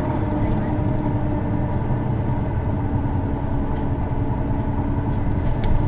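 Isuzu Erga city bus diesel engine and road noise heard from inside the cabin while driving, steady, with a thin whine held over the engine note. This unit's engine has a distinctive abnormal noise. A short click comes near the end.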